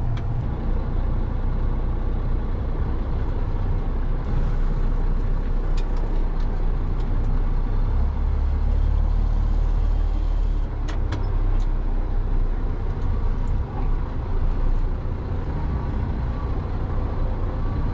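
Truck engine and road noise as the truck drives slowly, a steady low rumble that swells for a couple of seconds about eight seconds in, with a few light clicks.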